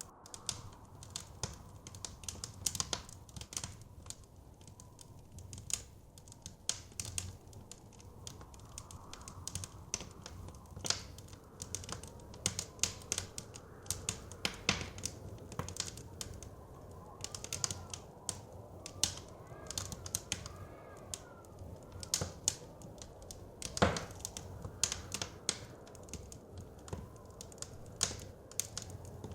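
Wood fire crackling, with frequent irregular sharp pops, one louder pop near the end, over a steady low rush of blizzard wind.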